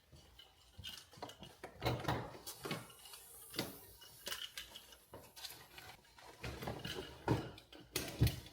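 Scattered light knocks and clatter of objects being picked up and set down, irregular and without any rhythm, with a few louder knocks spread through.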